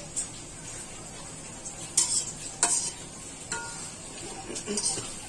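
Chicken curry sizzling as it fries in a pot, while a spatula stirs it and scrapes and clinks against the pot several times at uneven intervals. One clink, about three and a half seconds in, rings briefly.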